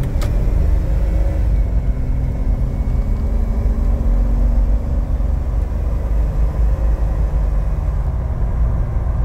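Inside the cabin of a 2006 Jeep Wrangler Rubicon pulling up a hill: the steady low rumble of its 4.0-litre straight-six engine mixed with road noise, with a faint engine hum that shifts slightly in pitch.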